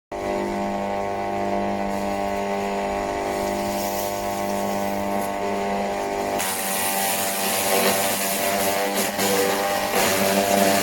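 Electric wood chipper (Forest Master FM4DDE, 2800 W direct-drive motor) running with a steady motor hum. About six seconds in, a harsher hissing rattle joins the hum and the tone shifts slightly.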